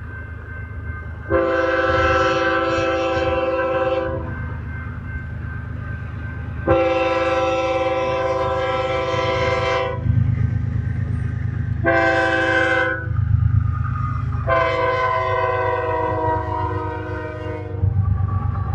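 Freight locomotive horn sounding the grade-crossing signal: two long blasts, a short one and a final long one, each a steady chord of several notes. Under it the train rumbles as it rolls.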